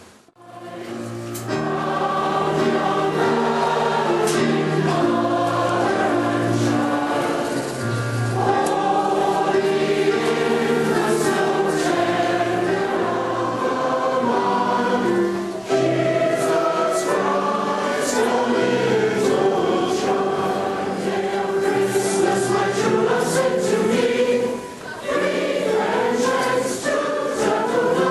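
A choir singing, with long held notes in several voices; it fades in at the start.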